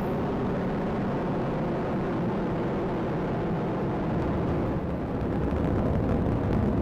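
ULA Vulcan rocket's two BE-4 engines and solid rocket boosters running in ascent, heard as a steady, low rumbling noise that grows slightly louder near the end.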